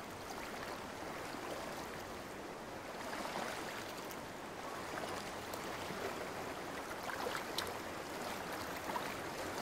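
Shallow stream water running steadily, with a few small splashes or ticks toward the end.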